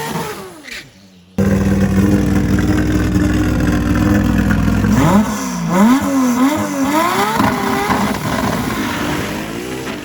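A drag car engine held at a steady high rev, then revved up and down several times, running loud throughout. The note comes in suddenly about a second in and eases a little near the end.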